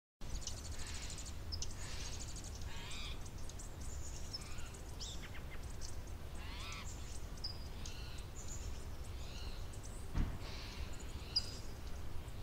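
Birds calling and chirping, several short calls some falling in pitch, over a steady low rumble. One short low thump about ten seconds in.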